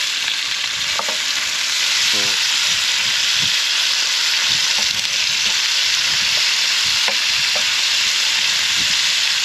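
Dogtooth tuna steaks sizzling steadily in a frying pan on a gas camp stove, with a few light clicks of a fork against the pan as the steaks are prodded and turned.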